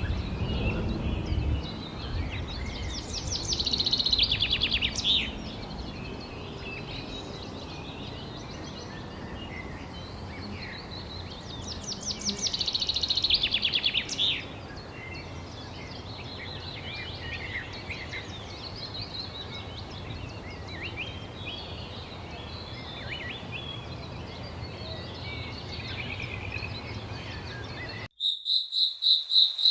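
Songbirds singing and chirping over a steady hiss of falling water, with two loud, rapid trills, one around four seconds in and one around thirteen. Near the end the background cuts out abruptly and a regular pulsing chirp begins.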